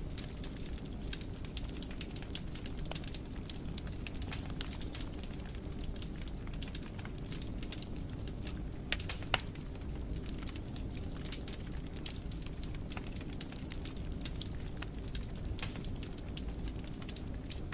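Wood fire burning in a fireplace: a steady low rumble of flame with frequent irregular crackles and pops, a couple of louder snaps about nine seconds in.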